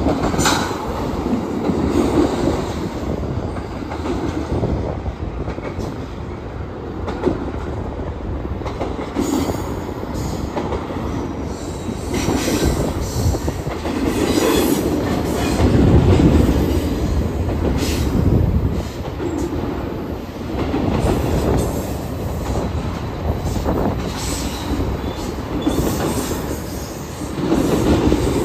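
Double-stack intermodal freight cars rolling past on steel rails: a continuous rumble of wheels that swells and eases as the cars go by, with clacks over the rail joints and brief high wheel squeals near the end.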